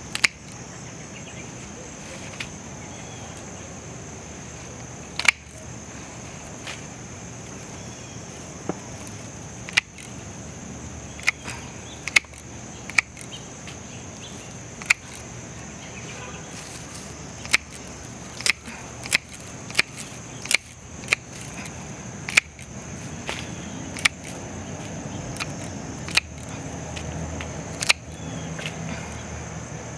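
Steady high insect chorus, typical of crickets, with about twenty sharp snaps scattered irregularly over it, some close together in the second half.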